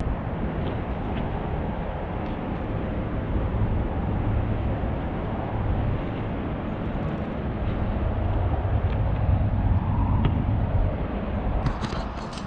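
Steady low rumbling noise with a few faint clicks scattered through it, and a handful of sharp ticks near the end.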